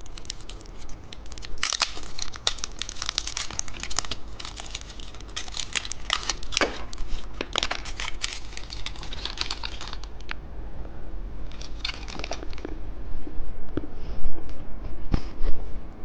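Plastic candy wrapper being torn open and crinkled, in dense crackling runs that thin out after about ten seconds, with a few louder knocks near the end.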